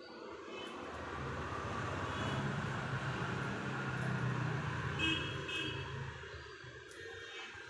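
A motor vehicle passing close by on the road, its engine rumble swelling and fading, with short horn toots about two seconds in and a quick run of toots around five seconds in.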